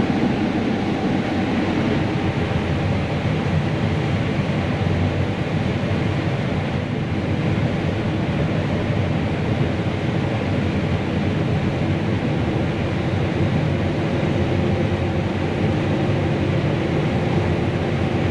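John Deere combine running steadily while harvesting corn, heard from inside the cab as an even machine drone with a few faint steady tones.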